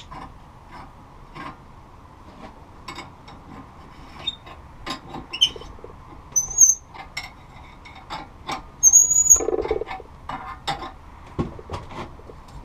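A greased 1-inch pipe tap being turned by hand in the threads of a Farmall Cub's exhaust manifold: irregular clicks and creaks with short high squeaks as the tap cuts and binds, and a louder burst about three-quarters of the way in.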